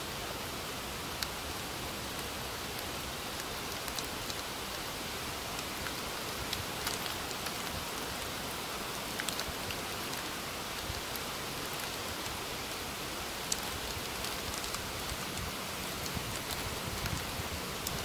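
Steady rain falling, with scattered sharp ticks of single raindrops that come more often toward the end.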